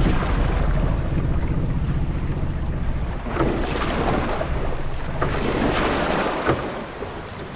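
Ship-at-sea ambience: a steady low rumble of wind and water, with waves washing up in two swells, about three and a half and six seconds in.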